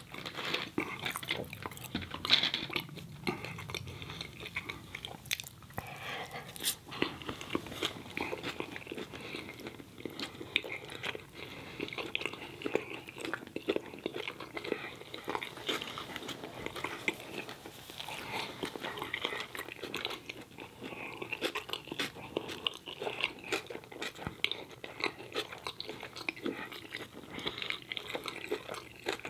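A person chewing a mouthful of bacon cheese hot dog in a bun: a steady run of short clicking mouth sounds with no pause.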